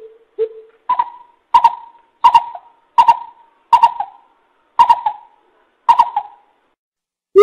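Coucal (bubut) giving a series of deep hoots, about one every two-thirds of a second. The first two are lower in pitch and the rest higher, each with a sharp start.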